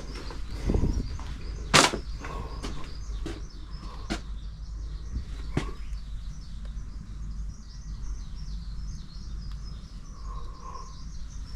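Scattered sharp clicks and knocks of hand work on a metal mower part, the loudest about two seconds in, over a steady outdoor background with a faint high chirring.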